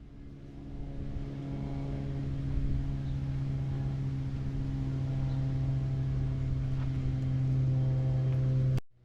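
A car engine running at a steady speed, growing louder over the first couple of seconds and then holding an even pitch, cut off abruptly just before the end.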